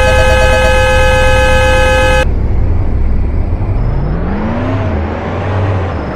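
Vehicle's automatic emergency braking warning: a loud, steady horn-like tone for about two seconds, cutting off abruptly. It is followed by a low sound rising in pitch over a steady rumble.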